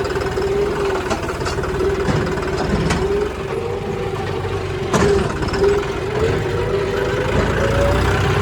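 Diesel engine of a farm machine running steadily at idle, a low rumble with a steady whine over it and a sharp click about five seconds in.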